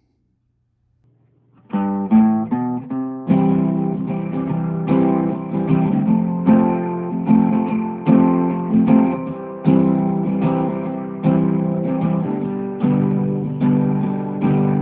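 Acoustic guitar music: strummed chords in a steady rhythm, starting after a short silence about two seconds in.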